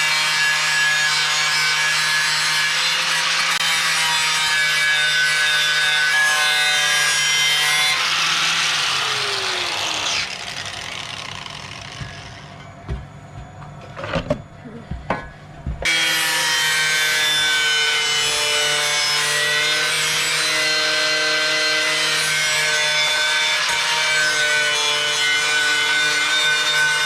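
Electric grinder running steadily as it grinds the edge of a steel spade to sharpen it. About eight seconds in it winds down, falling in pitch. A few knocks follow, then the grinder is running again from about sixteen seconds.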